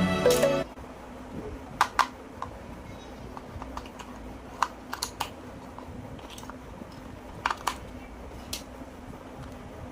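Background music cuts off just after the start, then scattered light clicks and taps of small objects being handled, about ten over several seconds, some in quick pairs.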